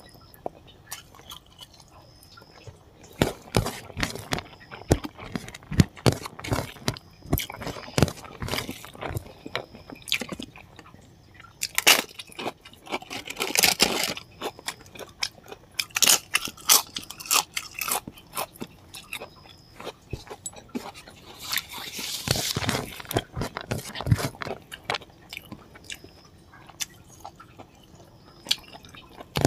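Close-miked eating by hand: chewing and crunching of rice, pork and crisp papad, with wet mouth sounds and fingers working rice on a plate. There are louder stretches of crunching around the middle.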